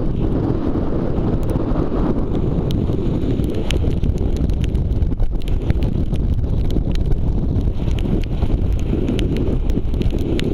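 Strong coastal wind buffeting the microphone: a loud, steady low rumble, with scattered sharp ticks throughout.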